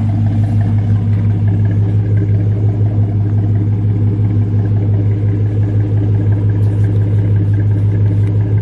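Chevrolet Silverado pickup's V6 engine running steadily with an even low drone.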